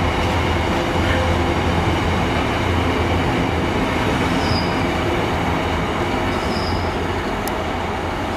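Container freight train wagons rolling past at steady speed, a continuous rumble and clatter of wheels on rail. Brief high wheel squeals come about four and a half and six and a half seconds in, and a single sharp click comes near the end.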